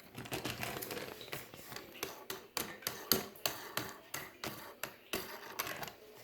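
Irregular light clicks and taps, a few a second, as the nut is unscrewed from the threaded base of a new toilet fill valve and the parts are handled.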